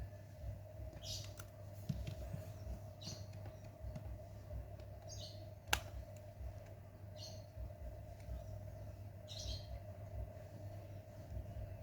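A bird chirps in short high calls about every two seconds over a steady hum. A single sharp click a little past the middle is the loudest sound.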